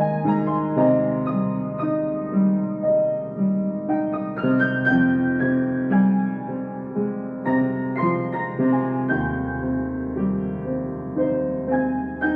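Solo piano playing a slow, gentle piece, a melody of single notes over held bass notes, a new note struck about every half second.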